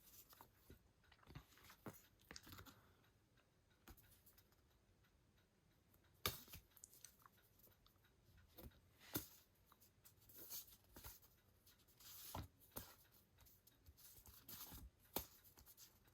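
Mostly near silence, with faint scattered rustles and clicks of cardboard art cards and a plastic Blu-ray keep case being handled; a few sharper taps stand out about six, nine, twelve and fifteen seconds in.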